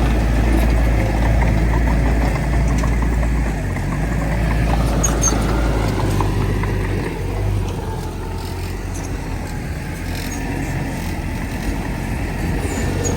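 Heavy earthmoving machinery's diesel engine running with a deep, steady drone. It eases off somewhat in the second half and picks up again near the end.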